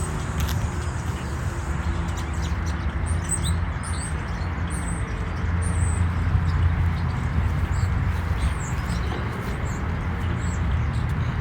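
Small birds chirping in short high notes, scattered throughout, over a steady low rumble.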